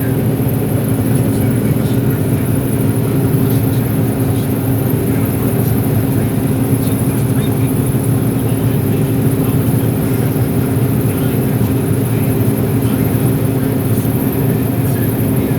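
John Deere 9760 STS combine running steadily while harvesting corn: a constant drone of the diesel engine and threshing machinery, with a steady low hum that does not change, heard from inside the cab.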